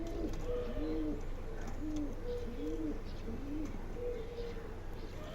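A pigeon cooing: a run of short, low coos, each rising and falling in pitch, about two a second.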